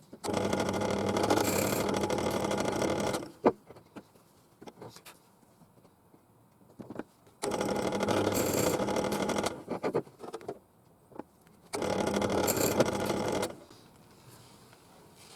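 Bench drill press running in three short bursts, each a few seconds long, as shallow 8mm holes are drilled into wood. Light knocks come between the runs as the work is repositioned.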